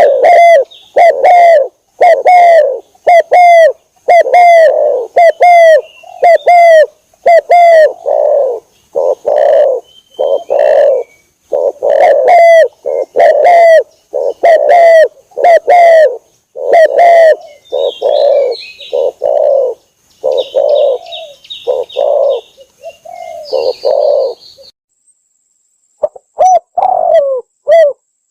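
Spotted dove cooing in a fast, loud, unbroken run of repeated coo notes, used as a lure call to draw in doves. The calls break off briefly about 25 seconds in, then start again. Faint high chirps from another bird sit in the middle, over a faint steady high tone.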